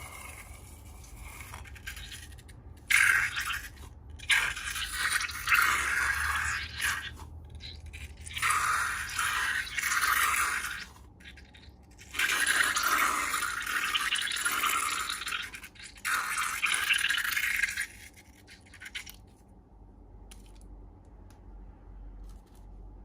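Slime being mixed and squished by hand. The noisy, wet sounds come in several bursts of one to six seconds with short pauses between, then stop a few seconds before the end.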